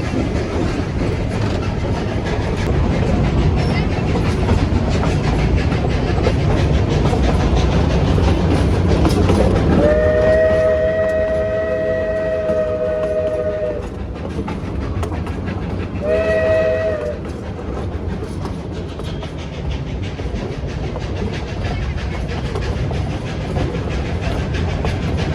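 Train rolling along, with a steady rumble and clatter of wheels on rail. About ten seconds in, the locomotive's whistle sounds a long chord-like blast of nearly four seconds, then a short blast about two seconds later.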